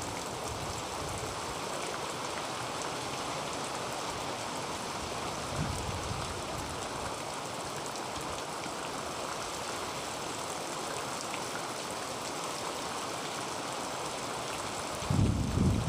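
Heavy rain falling steadily on a tin roof, with a short low rumble about six seconds in and a louder one near the end.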